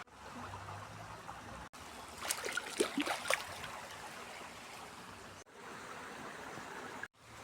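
Small, fast-flowing river rushing steadily, running high and fast after heavy rain. A few short, louder, higher sounds break in about two to three seconds in, and the sound cuts out for an instant three times.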